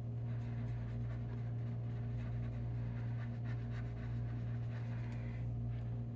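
Faint, irregular scratching of a colouring tool rubbed on paper as pencil colour is blended out with Gamsol solvent, over a steady low electrical hum.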